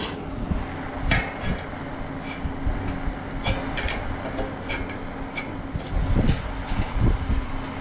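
Steady mechanical hum with a scattering of sharp clicks and clinks, and a few low thumps near the end.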